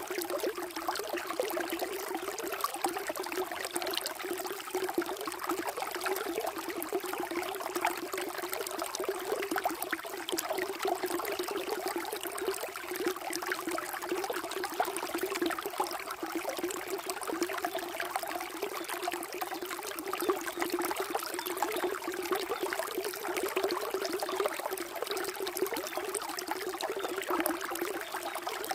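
Water flowing and trickling steadily, a continuous splashing burble.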